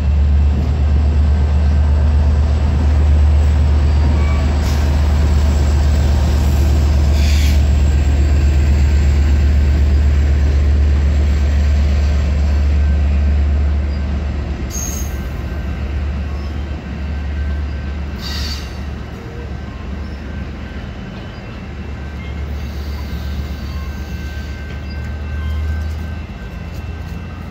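Exo commuter train of bilevel coaches passing at close range: a loud, steady low rumble that eases off a little about halfway through as the coaches roll by, with a few brief high wheel squeals.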